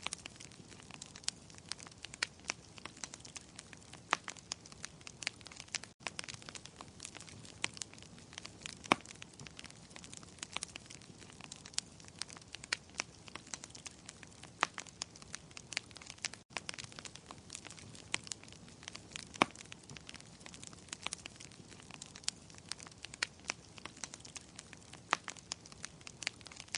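Wood fire crackling in a fireplace: irregular sharp pops and snaps, several a second, over a soft steady hiss. Twice the sound cuts out for an instant.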